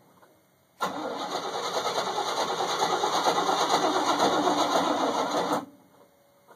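The 305 V8 of a GMC truck being cranked over by its starter for about five seconds, beginning about a second in and cutting off suddenly without the engine catching. The owner puts the failed start down to a toasted battery.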